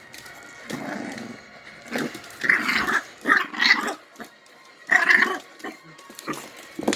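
Puppy growling and barking in a series of short, loud bursts.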